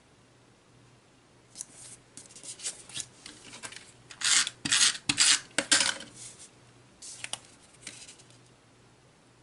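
Paper pieces being handled and rubbed against the paper of a scrapbook page: a series of short, dry rubbing and scraping sounds starting about a second and a half in, loudest in a cluster near the middle, then a few lighter ones.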